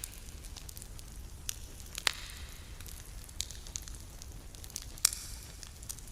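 Wood campfire crackling, with scattered sharp pops over a soft hiss; the loudest pops come about two and five seconds in.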